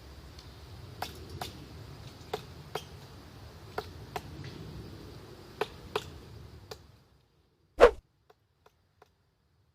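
Woodpecker pecking at wood: single sharp taps at irregular intervals, often in pairs, over steady outdoor hiss. About seven seconds in, the background cuts out and one much louder knock follows, then a few faint ticks.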